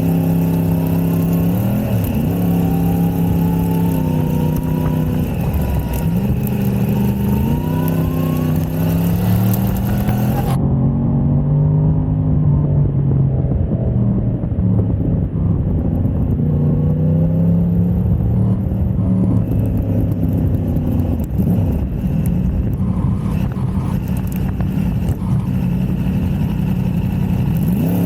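Motorcycle engine at speed on a race track, its pitch climbing and falling again and again as it accelerates, changes gear and slows for corners.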